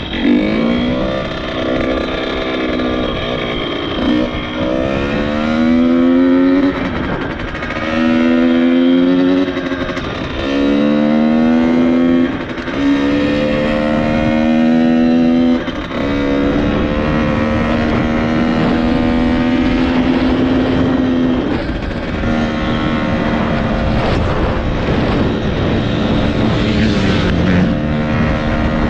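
Dirt bike engine pulling up through the gears: it revs up in each gear and drops in pitch at each upshift, about five times, then holds a fairly steady note.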